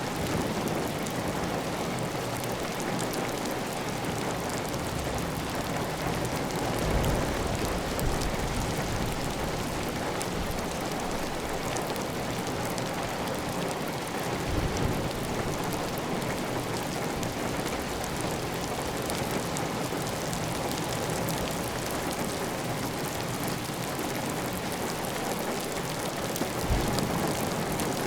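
Steady heavy rain falling on a clay-tile roof, with water running off the roof edge, as one even hiss of rain. A few brief low thumps stand out, at about 7 and 15 seconds and near the end.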